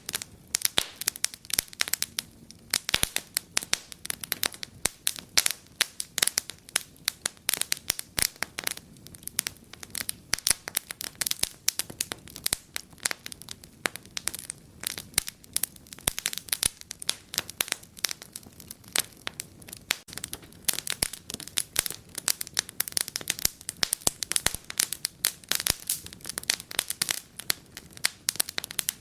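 Wood fire in a fireplace crackling: dense, irregular pops and snaps over a faint low hiss of flames.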